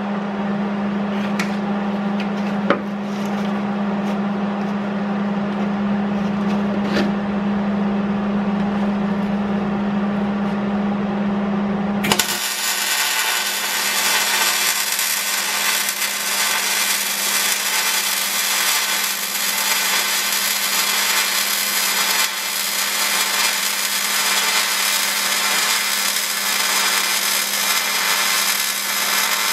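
A steady hum with a few sharp clicks, then about twelve seconds in a loud, steady hissing rasp of metalwork on a steel vehicle frame starts suddenly and runs on.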